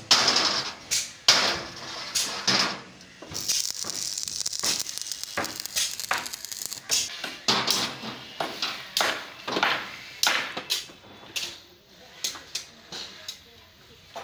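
Workshop work on a truck body: irregular knocks and clanks, the sharpest in the first three seconds, with short bursts of hiss between them.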